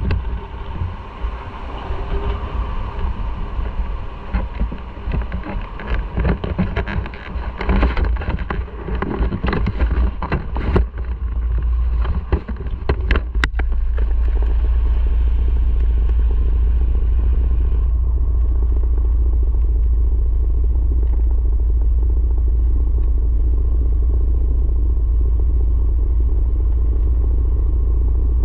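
Riding on a motorcycle: a low rumble of wind and road noise on the microphone, with a series of knocks and clatter in the first half, then a steady, even rumble from about halfway.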